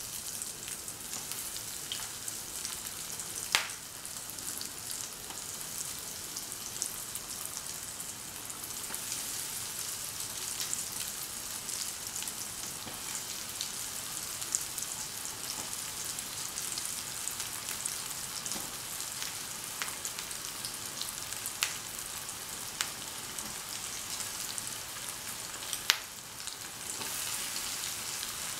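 Breadcrumb-coated paneer fingers shallow-frying in a little hot oil in a pan: a steady sizzle with a few sharp pops of spattering oil, the loudest near the end.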